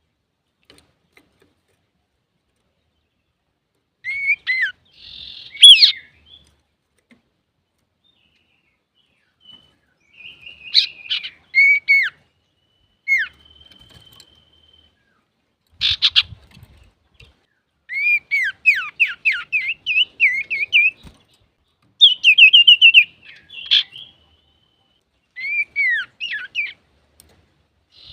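Male common iora (cipoh) singing: phrases of clear, sweeping downslurred whistles and quick runs of notes, beginning about four seconds in and separated by short pauses.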